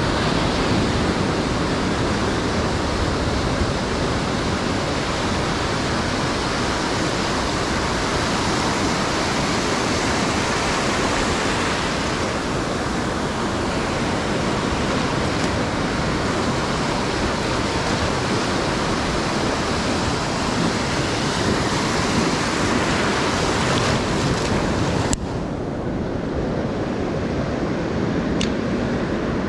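Ocean surf washing onto a sandy beach, with wind noise on the microphone; the higher hiss drops away suddenly near the end.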